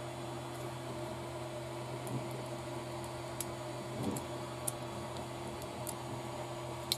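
Steady low background hum with a few faint, short clicks and ticks as small plastic and metal kit parts are handled while a shock absorber is screwed onto an RC car's suspension.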